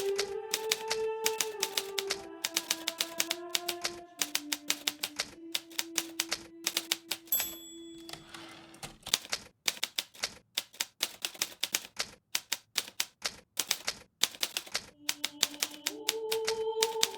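Hermes Baby portable typewriter typing: a fast, irregular run of sharp keystroke clicks, with a short high ring about seven seconds in. Soft melodic background music plays under it, fading out about halfway and coming back near the end.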